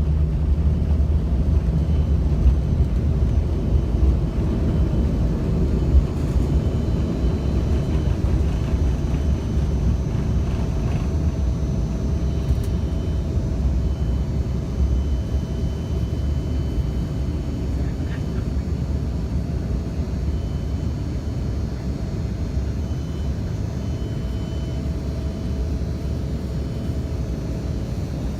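Steady low rumble of a jet airliner heard from inside the passenger cabin: engine and airflow noise, with a faint steady hum, easing a little in level toward the end.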